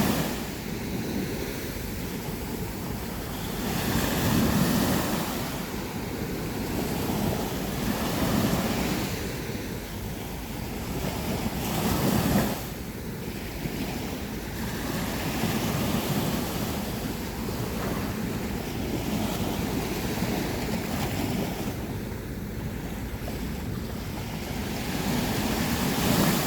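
Sea waves breaking on a beach, a continuous rush of surf that swells and falls back every few seconds as each wave comes in.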